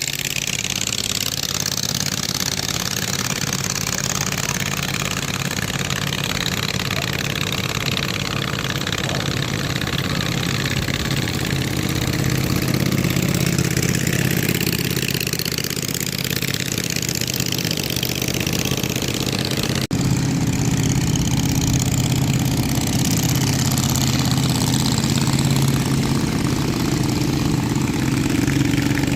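An engine running steadily under a rushing hiss. The engine sound breaks off for an instant about twenty seconds in and then goes on a little louder.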